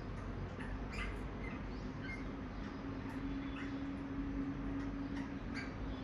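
Birds chirping outside: short, high chirps scattered every second or so, over a steady background hiss. A faint steady low hum comes in about halfway through.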